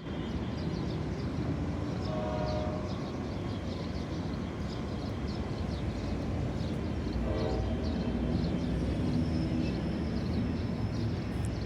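General Electric diesel locomotive approaching with a steady low rumble that grows slowly louder, with two short horn blasts, about two seconds in and about seven seconds in.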